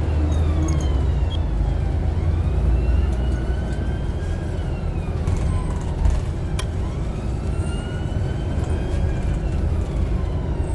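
Steady street traffic rumble. Over it, a faint siren wails slowly up and down.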